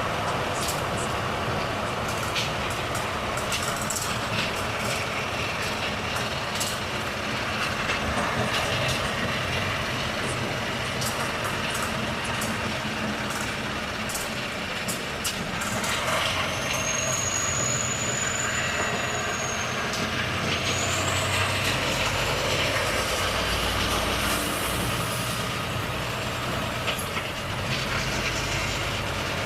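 Volvo FH truck running, with short clicks and ticks through the first half, a high brake squeal held for about four seconds around the middle, and a deeper, stronger engine note in the second half.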